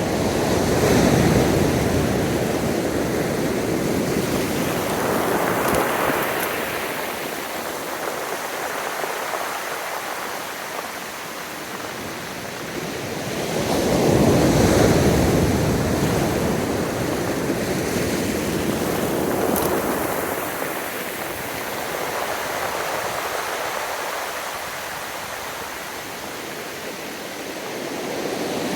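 Gentle ocean waves breaking and washing up a sandy beach, the surf swelling and easing several times, loudest about halfway through.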